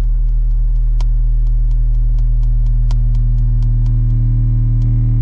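American Bass Godzilla 8-inch subwoofers in a sealed box playing a steady, loud low bass test tone at about 39 Hz for a decibel reading, heard inside the closed car cabin. Faint ticking, about four a second, sits over the tone.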